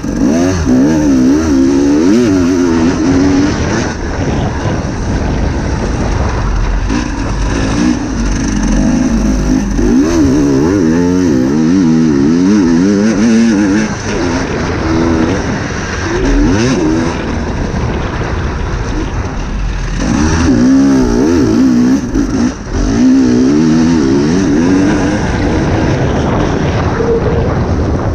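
Dirt bike engine revving up and down over and over as it is ridden, the pitch climbing and dropping every second or two as the throttle opens and closes.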